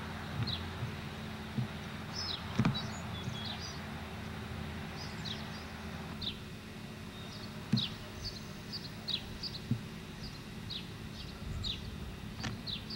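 Birds calling with short, high chirps that slide downward, repeated every second or so, over a low steady hum. A few sharp thumps stand out, the loudest about two and a half seconds in and again near eight seconds.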